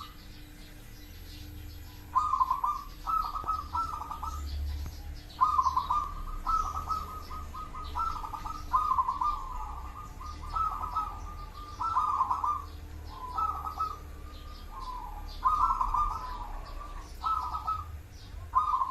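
Zebra dove (perkutut) cooing: repeated phrases of quick, rolling coo notes, broken by a few short pauses.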